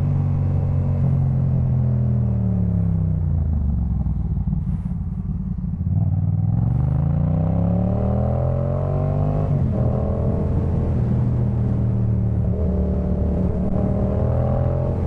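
Yamaha MT-07's parallel-twin engine running through a Jeskap K4 full aftermarket exhaust while riding. The revs fall away for a few seconds, then climb steadily to an upshift about two-thirds of the way through, then hold nearly steady with small rises.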